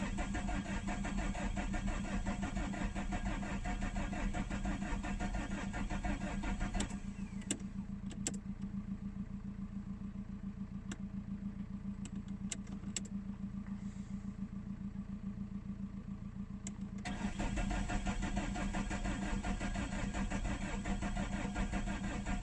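Saab 9-3 1.9 TID four-cylinder turbodiesel idling shortly after a cold start near freezing, with a steady, even diesel clatter. For about ten seconds in the middle the sound turns duller, with a few sharp clicks, then returns to full.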